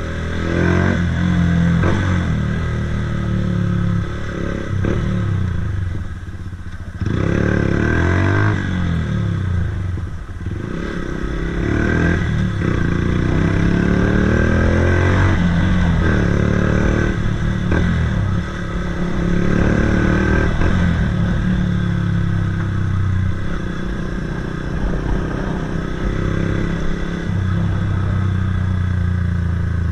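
Honda CBF 125's single-cylinder four-stroke engine running through a DanMoto GP aftermarket exhaust. The pitch climbs and drops back again several times, as when accelerating through the gears.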